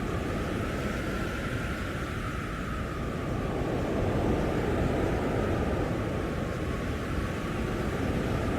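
Storm-force blizzard wind blowing steadily with a faint wavering howl, growing a little stronger about halfway through.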